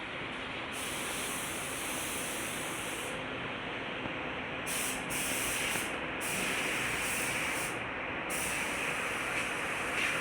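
Steady hissing noise whose higher part cuts in and out several times.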